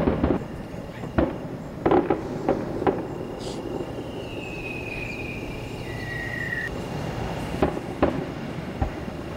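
Aerial firework shells bursting: a run of sharp bangs in the first three seconds, a lull, then more bangs near the end. In the lull a long whistle falls slowly in pitch over about two and a half seconds.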